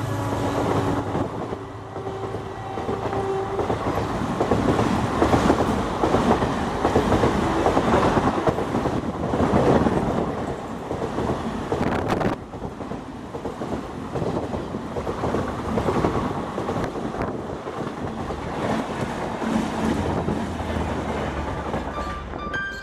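Indian Railways express passenger train running past at speed, its wheels clattering over the rail joints in a steady loud rumble, with a short horn tone a couple of seconds in and a single sharp knock about halfway through.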